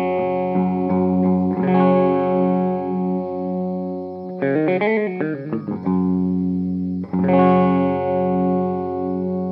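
Electric guitar played through the M'Amps pocket power amp, a single EF95 (6J1) mini pentode tube with a Class D output stage, with an effects unit in the chain. Ringing sustained chords, a wavering passage with bending pitch midway, then a fresh chord near the end.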